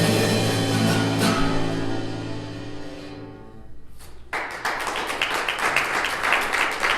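The last chord of a live worship song rings out and fades away over about three seconds. A little after halfway the congregation starts applauding.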